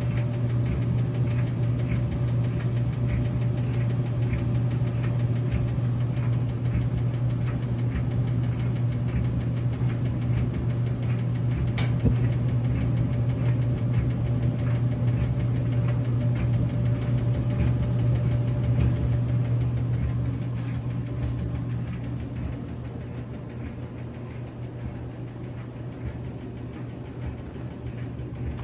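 Whirlpool gas dryer running with its gas burner firing: a steady low hum and rumble from the drum and motor. A single sharp click comes about twelve seconds in, and the sound grows quieter over the last several seconds.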